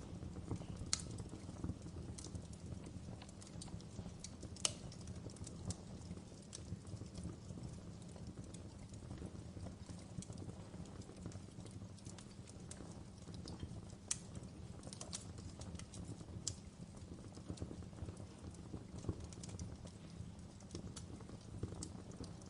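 Wood fire crackling in a fireplace: a steady low rumble of flame with scattered, irregular sharp pops and snaps, the loudest about five seconds in.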